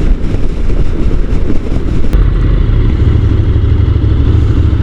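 Honda NC750 parallel-twin motorcycle engine running under way on a climb, heard over rough low road and wind rumble; about two seconds in the engine hum becomes steadier and stronger.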